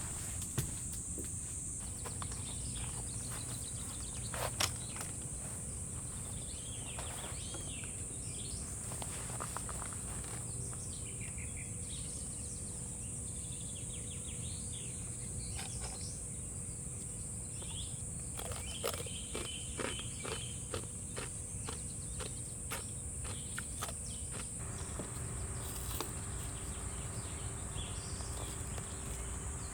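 Insects in summer woods making a steady high-pitched drone throughout, with faint bird chirps and a scattering of sharp clicks and knocks from something being handled close by.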